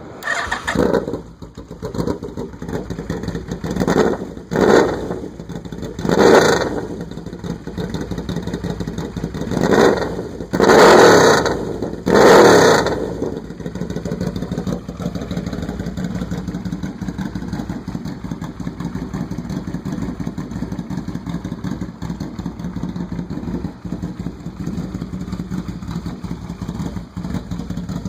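2003 Yamaha V-Max 1200's V4 engine with an aftermarket UFO exhaust starting up. It takes about seven sharp throttle blips over the first thirteen seconds, then settles into a steady idle.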